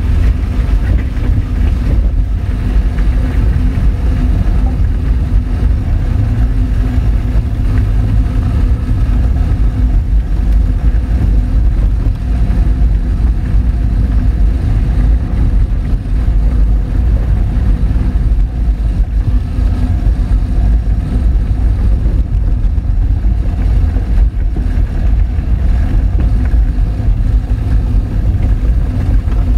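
Honda Fit driving along an unpaved forest road: the engine hums steadily under a continuous low rumble from the tyres on the dirt surface.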